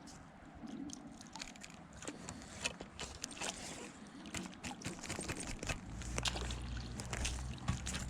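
Water sloshing and splashing in irregular strokes, like legs wading through a shallow creek, with small sharp clicks among them. A low rumble joins about six seconds in.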